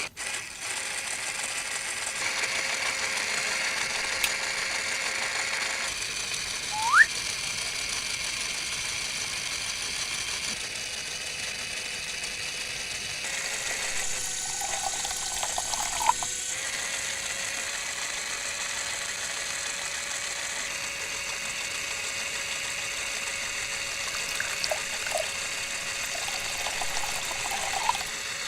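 Small electric motor of a homemade miniature machine running steadily, a thin constant whine over a hiss, the sound shifting abruptly a few times.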